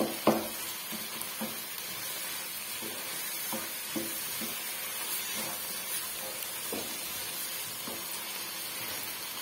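Vegetables sizzling steadily in a nonstick wok while a wooden spoon stirs them, knocking and scraping against the pan every second or so, with a sharper knock near the start.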